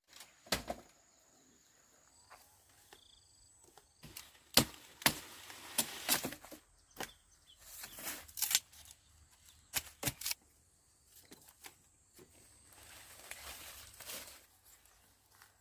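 Irregular sharp knocks and snaps, about a dozen scattered through, with stretches of rustling noise.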